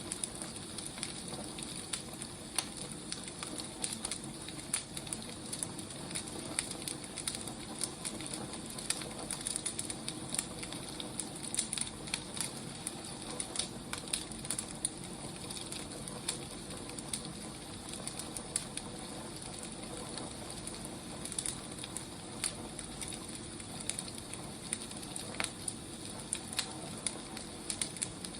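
Wood fire burning with a steady hiss and frequent irregular crackles and pops.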